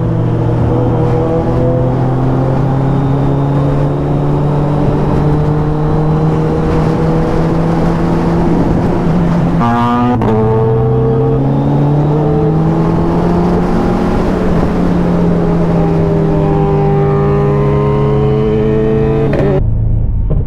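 Inline-four superbike engine running loud at steady riding revs, its pitch drifting slowly up and down. About halfway through the note breaks sharply, then climbs again.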